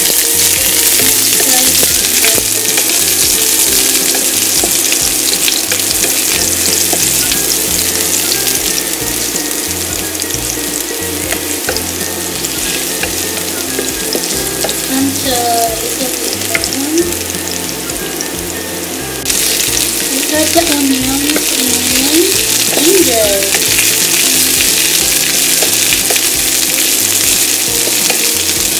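Garlic and ginger sizzling in hot olive oil in a nonstick frying pan, stirred with a wooden spatula. The sizzle turns suddenly louder about two-thirds of the way through.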